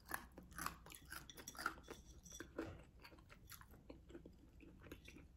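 Quiet close-up chewing of fried green plantain slices: soft, irregular crunches and wet mouth sounds, most of them in the first couple of seconds.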